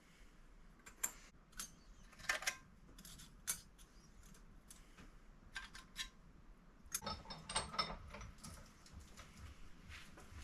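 Flat pieces of high- and low-carbon steel clinking as they are laid one on another to stack a Damascus billet. Scattered light metal clicks come every second or so, with a quick run of clinks about seven seconds in.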